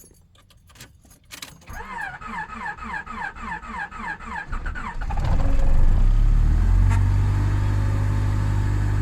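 1994 Honda Accord's four-cylinder engine in a −30 °C cold start: a few clicks, then the starter cranks it over slowly with an even pulse, about four strokes a second, for about three seconds. The engine fires about five seconds in and settles into a steady fast idle.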